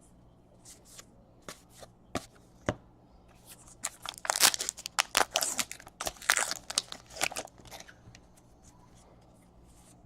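Foil wrapper of a baseball card pack being torn open and crinkled: a few light handling taps, then a dense run of tearing and crinkling from about four seconds in to near the end.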